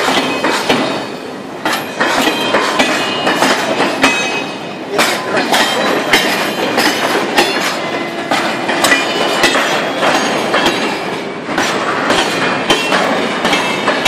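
Freight train of empty flatcars rolling slowly past on street-level track. The wheels clack over the rail joints amid irregular metallic clanks, with brief thin wheel squeals.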